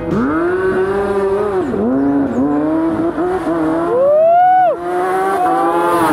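Motorcycle engine revving hard, its pitch climbing, holding and dipping several times. A second, higher-pitched rev climbs about four seconds in and falls away sharply.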